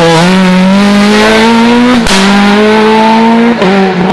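Rally car engine at full throttle, its pitch climbing for about two seconds, then a gear change with a sharp crack about halfway through, after which it holds high revs before a brief lift near the end.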